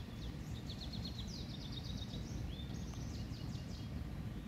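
A songbird singing in short runs of quick, high chirping notes, over a steady low outdoor rumble.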